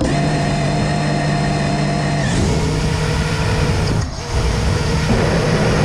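FPV racing quadcopter's electric motors and propellers whining. The pitch steps up about two seconds in, and the sound drops briefly about four seconds in as the throttle is cut.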